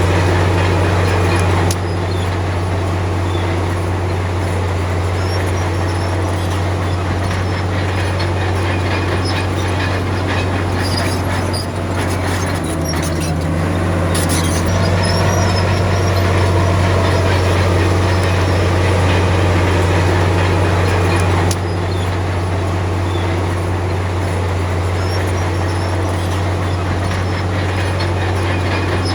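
Komatsu D53P bulldozer's diesel engine running with a steady low drone, the level dropping abruptly about two seconds in and again near twenty-two seconds.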